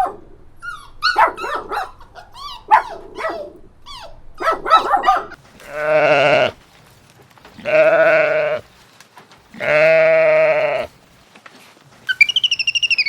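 A dog barking in quick, high clusters of yaps, then a goat bleating three long calls about two seconds apart. Near the end a short, fast-trilling call begins.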